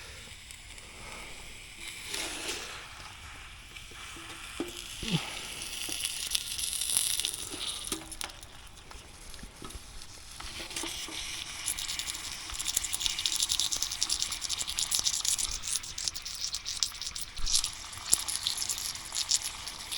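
Fine crackling and sizzling that thickens from about halfway through: tinned stewed meat heating over a campfire as its fat starts to melt.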